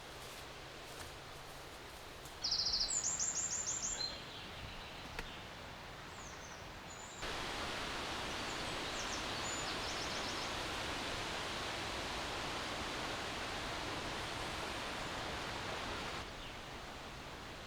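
Forest ambience with a small bird's short rapid trill a few seconds in. Then a steady rushing hiss of strong wind through the trees, starting suddenly about seven seconds in and falling away suddenly near the end.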